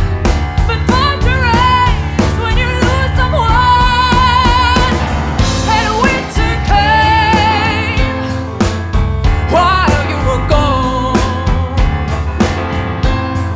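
Live band playing a blues-rock song, a singer's voice with vibrato over drum kit and bass, with a short break in the singing about halfway through.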